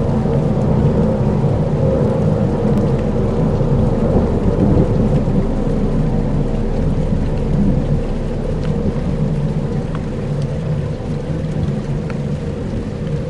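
Dark ambient soundscape: a steady, dense low rumble like distant thunder and rain, with a faint held drone and a few scattered ticks; it eases slightly about two-thirds of the way through.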